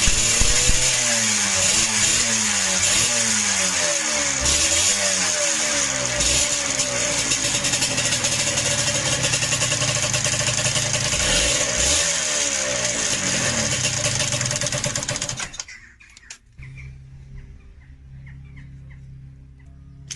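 Yamaha DTR125 two-stroke single-cylinder engine running and revved in repeated short throttle blips, then cut off about 15 seconds in. The engine was bought knocking, a noise the title puts down to piston slap.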